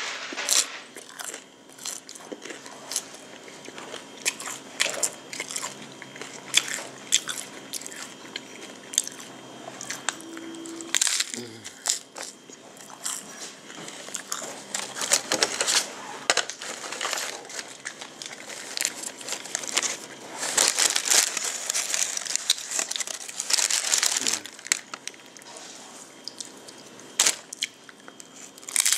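Crunchy hard-shell corn tacos being bitten and chewed close to the microphone: irregular crisp crunches and crackles, coming thicker in two spells about halfway through and again past two-thirds of the way.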